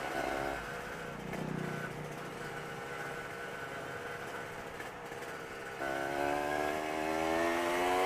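Motorcycle engine running under way, then from about six seconds in pulling harder, its pitch rising steadily as it accelerates.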